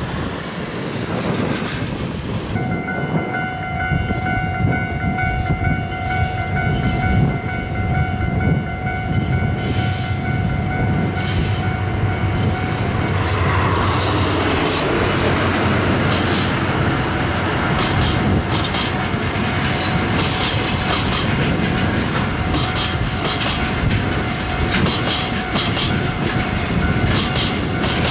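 Freight train running past: a low rumble with a steady high whine from about two seconds in, and the wagons' wheels clicking over rail joints, more and more often from about ten seconds on.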